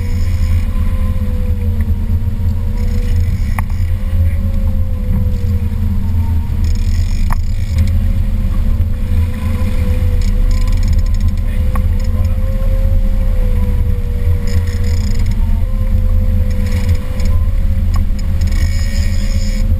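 Motorboat engine running steadily: a deep, even rumble with a thin, slightly wavering whine above it.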